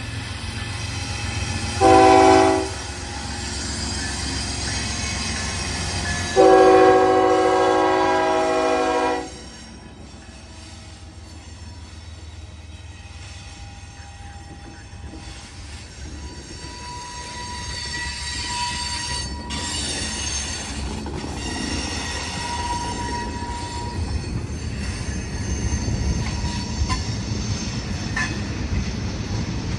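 Diesel freight locomotive's air horn sounding a short blast about two seconds in and a long blast of about three seconds, the loudest sounds here. Then the freight train rolls past with a steady rumble and thin, drawn-out wheel squeals.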